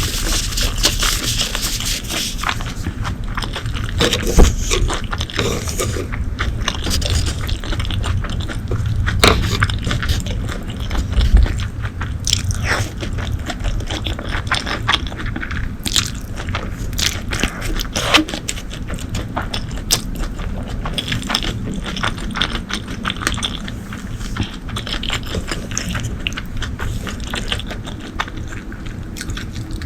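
Close-miked eating sounds: a person biting and chewing food, with many small sharp clicks and crunches, the loudest about 4 and 11 seconds in.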